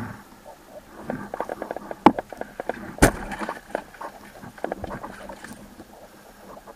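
An irregular run of sharp clicks and knocks over a faint steady hiss. The loudest is a single sharp crack about three seconds in.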